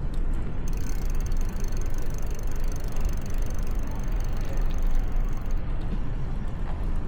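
Wind rushing over the microphone and the rumble of a moving bicycle, with a fast, high ticking from about a second in that stops about a second and a half before the end.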